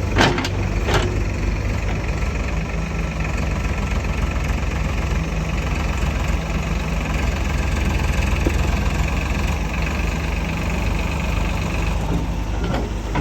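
Heavy diesel engine idling steadily with a low hum. Two sharp knocks come in the first second.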